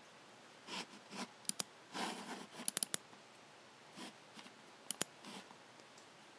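Logitech G7 computer mouse buttons clicking: sharp clicks in a pair, then a quick triple, then another pair, with softer scuffing sounds in between.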